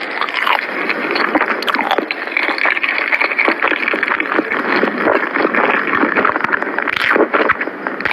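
Close-miked chewing of creamy layered crepe cake: a dense, continuous run of mouth noises with many small clicks.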